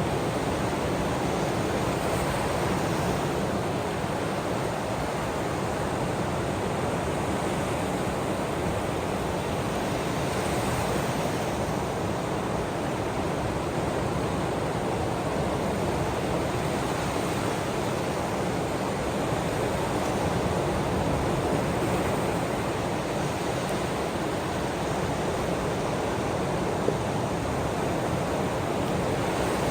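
Ocean waves washing in a continuous, steady hiss, with no distinct breaks of individual waves.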